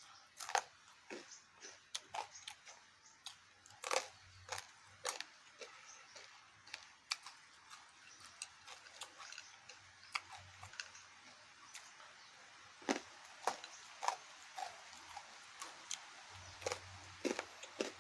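Close-up eating sounds: irregular crunches, clicks and wet smacks of someone chewing, several sharp ones around four seconds in and again near thirteen to fourteen seconds.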